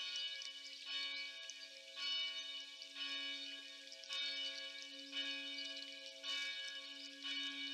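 Church bell tolling at about one stroke a second, each stroke ringing on into the next.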